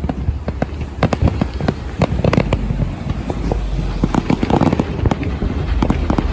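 Fireworks going off: a dense, irregular run of bangs and crackling pops over a low rumble.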